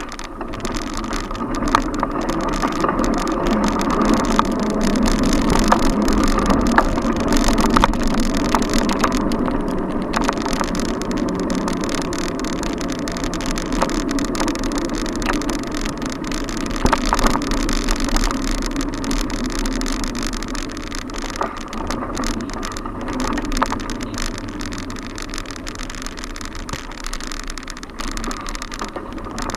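Ride noise from a bicycle in city traffic: a steady rush of wind and passing cars, with small sharp rattles and clicks from the bike.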